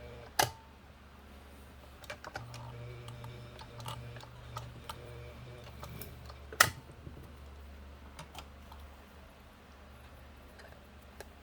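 Vintage New Home electric sewing machine stitching slowly through two layers of leather: a low motor hum with light clicking from the needle mechanism, a sharp click about half a second in, and another loud click about six and a half seconds in as the motor stops.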